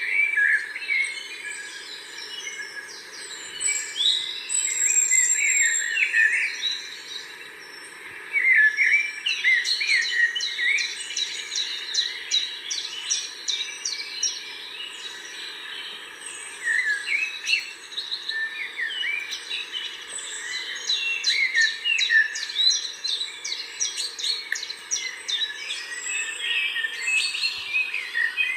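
A chorus of several small birds chirping and singing at once, with quick, overlapping calls and trills that come in waves throughout.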